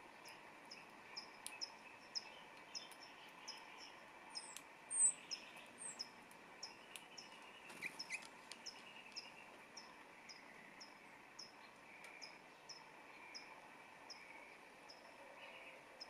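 Small birds calling: a steady series of short, high chip notes about two or three a second, with a few brighter, higher chirps around five seconds in, the loudest sounds.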